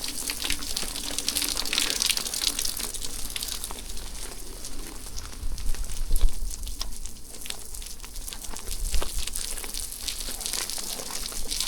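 Steady rain falling, a continuous hiss dotted with sharp ticks of drops striking close by, with a low rumble that swells briefly about halfway through and again near the end.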